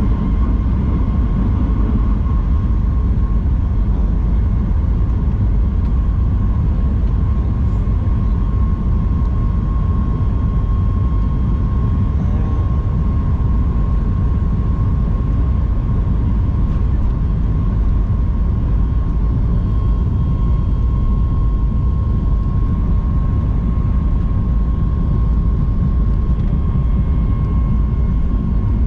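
Jet airliner cabin noise: a steady, even drone of the engines and airflow, with a thin, steady whine running over it.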